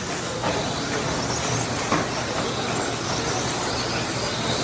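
1/10-scale electric RC stadium trucks racing on a dirt track: a steady whir of motors and tyres, with a sharp clack about two seconds in.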